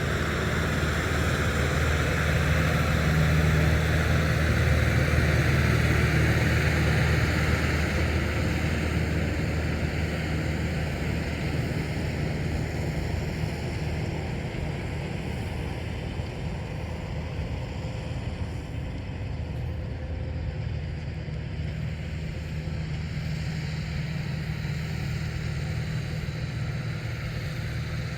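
Tractor's diesel engine running steadily with a low drone, swelling a little in the first several seconds and then easing slightly.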